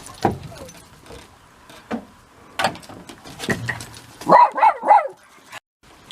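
A dog barking three times in quick succession, about four seconds in, after a few faint scattered knocks.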